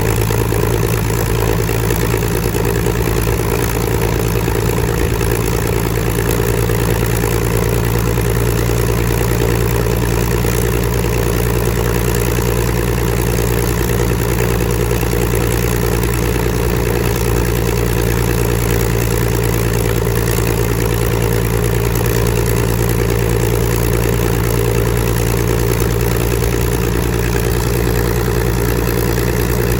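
Supermarine Spitfire Mk XIV's Rolls-Royce Griffon V12 aero engine running steadily at a constant low speed during a ground run.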